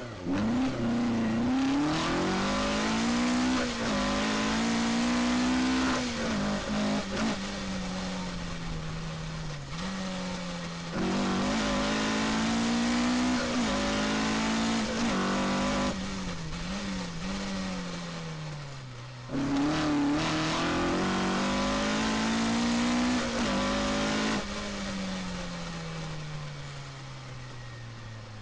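Rally car's engine heard from inside the car, revving hard and climbing through the gears, with several lifts off the throttle. Over the last few seconds the revs fall away steadily as the car slows.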